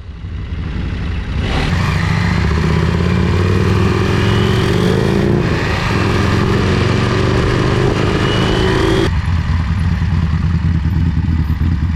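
Motorcycle engine running under way, a steady low drone that builds over the first two seconds. The hiss riding over it cuts off abruptly about nine seconds in.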